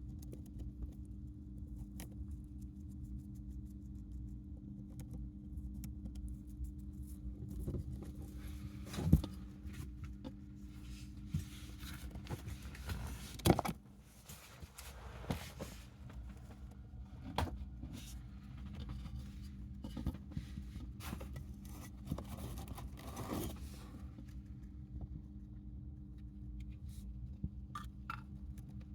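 A hamster making light scratching and clicking sounds, scattered and irregular, with two louder knocks about nine and thirteen seconds in, over a steady low hum.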